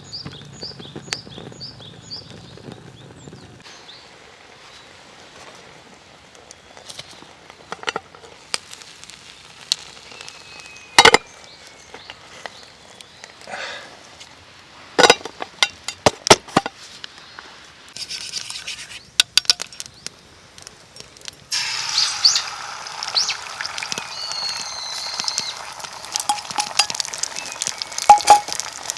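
Metal utensils and cookware clinking and knocking a few times, then food starts sizzling in a hot pan about three-quarters of the way through. A bird chirps briefly right at the start.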